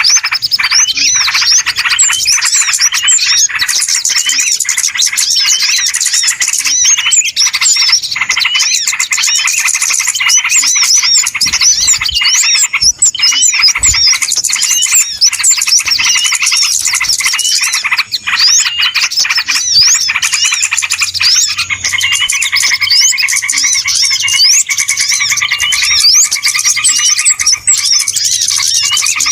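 Loud, dense chorus of many small birds chirping and twittering at once, a bird-lure recording ('suara pikat') used to draw small birds in. From about two-thirds of the way through, steadier, lower drawn-out notes join the rapid chirps.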